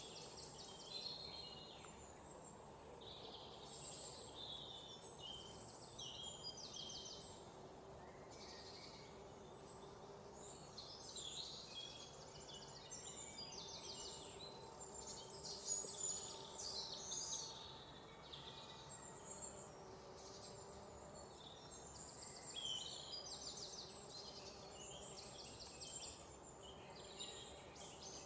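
A chorus of many small birds chirping and singing at once, short overlapping calls coming thick and fast, over a faint steady low hum.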